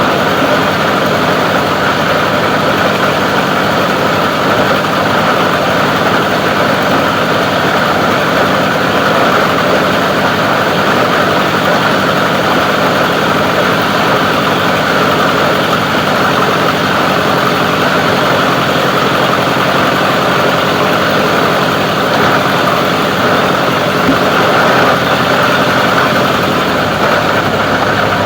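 Plastic recycling grinder running steadily, a loud continuous mechanical noise with no distinct knocks or changes in pitch.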